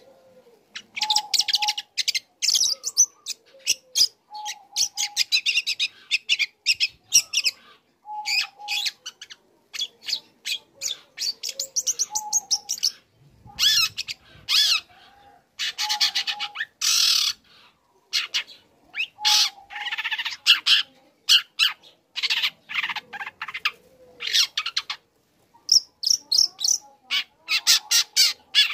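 Long-tailed shrike singing: repeated bursts of rapid, scratchy chattering phrases, each lasting a second or two, broken by short pauses and mixed with short lower whistled notes.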